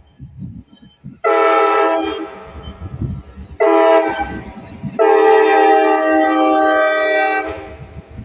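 Locomotive air horn sounding three blasts of a multi-note chord, the last the longest at about two and a half seconds, over the low rumble of the passing train.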